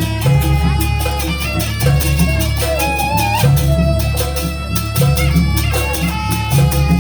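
Live Banyuwangi jaranan gamelan music: a high, wavering lead melody that slides between notes, over a steady beat of drums and percussion and a deep continuous low end.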